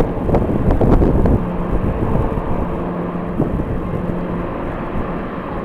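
Jet airliner engines running with a steady low rumble and hum, heard through gusty wind buffeting the microphone, the gusts easing after about a second and a half.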